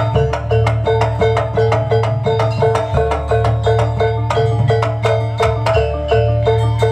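Jaranan kuda lumping music from a Javanese gamelan-style ensemble: a quick, even beat of pitched metal percussion repeating the same notes over a deep drum bass.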